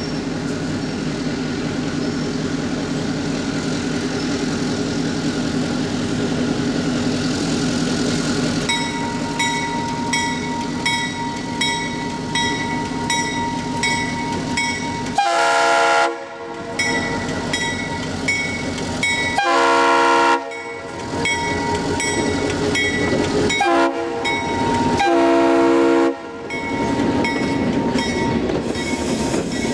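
Diesel locomotive horn sounding the long, long, short, long grade-crossing signal over the rumble of a running train. A bell rings repeatedly, just under twice a second, from about a third of the way in.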